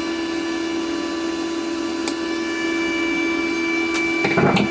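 Wire-feed motor of a Parkside PMSG 200 A1 flux-core MIG welder running with a steady hum, pushing flux-core wire through the liner to the torch. Short clicks about two and four seconds in, and a brief rattle near the end.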